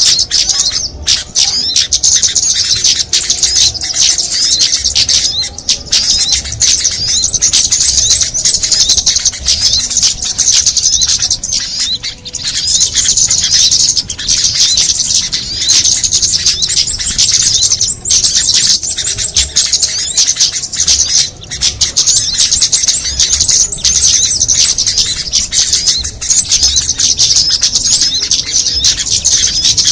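Dense, unbroken high-pitched chirping and twittering of many small songbirds at once, a busy overlapping mix of rapid calls. It is a recording made to lure small birds to a trap.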